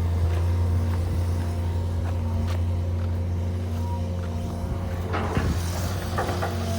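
Hydraulic excavator diesel engine running steadily under working load as it trims a slope, with a few short knocks and scrapes of the machine and bucket working, the clearest a little after five seconds in.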